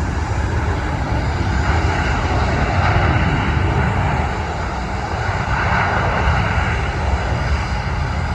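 Jet engines of a landing Boeing 737 airliner: a steady rumble and roar that swells twice, about two to three seconds in and again near six seconds.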